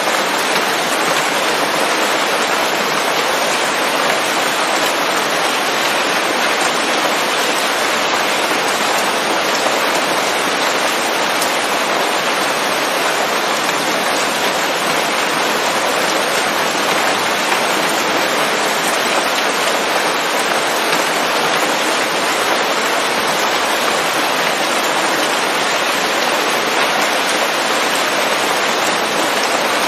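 Steady rain falling on leaves, an even unbroken patter with no thunder.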